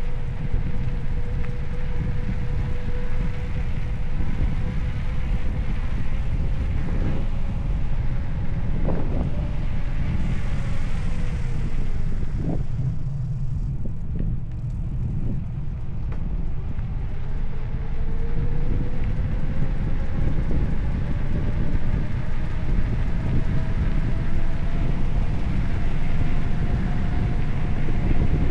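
Wind buffeting the microphone of a moving bicycle, a steady low rumble, with a faint thin whine that sags and then slowly rises in pitch and a few light clicks midway.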